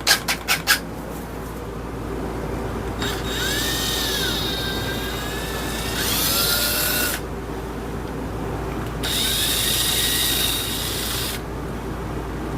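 Power drill spinning a deburring bit against a drilled hole in a wooden hammer handle, run in two bursts with a whine that rises and falls as the trigger is worked. A few sharp clicks at the very start, over a steady low hum.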